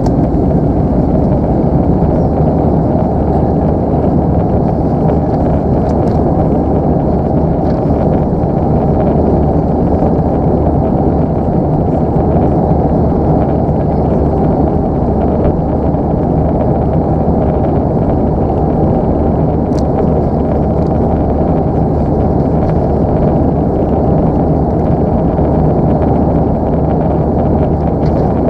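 Airbus A319 cabin noise in flight: a loud, steady, even rumble of engine and airflow noise.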